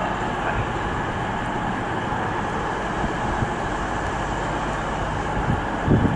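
Two coupled Class 220 Voyager diesel-electric multiple units running through the station, a steady rumble of engines and wheels on rail, with a low thump near the end.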